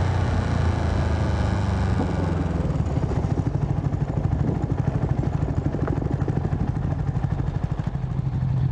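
Motorcycle engine running steadily, then from about three seconds in dropping to a pulsing idle as the bike slows.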